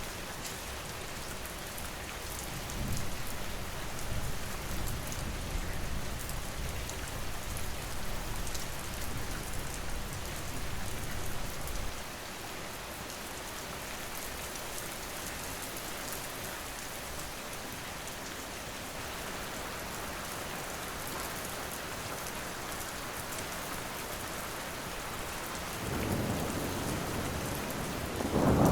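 Steady rain falling, with a low thunder rumble that starts about three seconds in and dies away around twelve seconds. A second rumble builds near the end.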